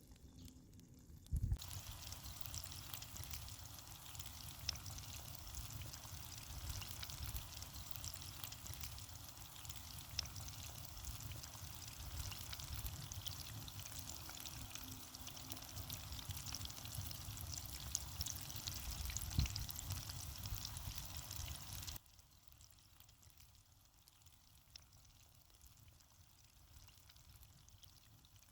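Hot oil sizzling and crackling as food deep-fries: a steady hiss with many fine pops, starting abruptly a second or two in and cutting off suddenly about two-thirds of the way through.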